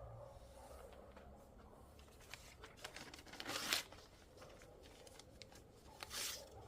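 Faint rustling and clicking handling noises, with two louder rustles about three and a half and six seconds in.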